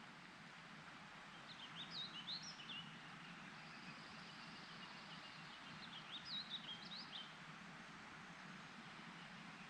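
A songbird singing two quick warbling phrases of high rising-and-falling notes, a few seconds apart, with a third starting near the end, over a faint steady outdoor rushing background.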